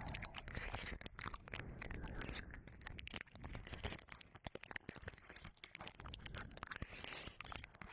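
Close, wet mouth sounds and licking on a binaural microphone's ear: many quick tongue clicks and smacks, continuous and irregular.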